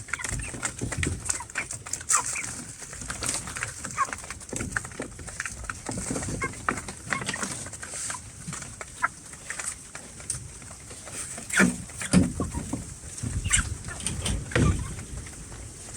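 Farmyard animals: short clucking calls mixed with clicks and knocks, with a few louder, lower calls in the last few seconds.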